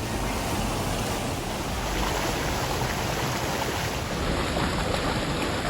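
Steady rush of a mountain stream's water tumbling over rocks.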